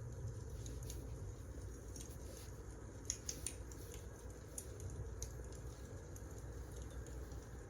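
Wood fire crackling: a steady low rumble of burning logs with scattered sharp crackles and a couple of louder pops about three seconds in.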